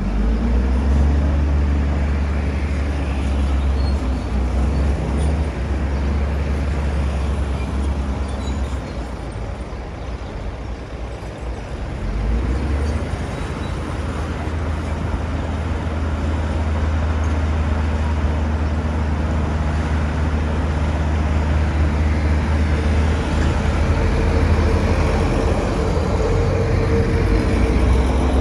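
Bulldozer's diesel engine running under load, a deep steady drone that eases off briefly and then picks up again about twelve seconds in.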